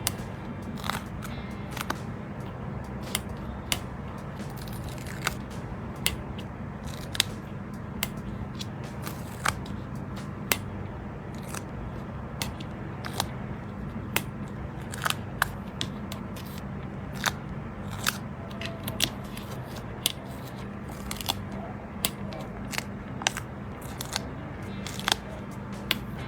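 Sharp, irregular clicks and crackles, about one or two a second, of sticker sheets and their paper and plastic packaging being handled, over quiet background music.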